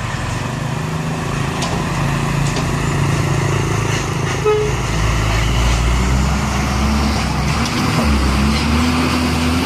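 Heavy diesel truck engine running close by and growing louder, its pitch climbing over the last few seconds as it accelerates. A brief horn toot sounds about halfway through.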